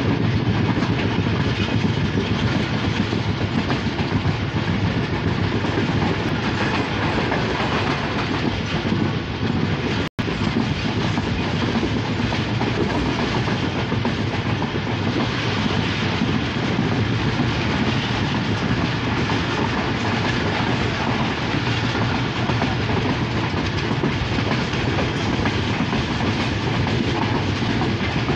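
Passenger train running at speed, the steady noise of its wheels on the track heard from inside a carriage. The sound cuts out for an instant about ten seconds in.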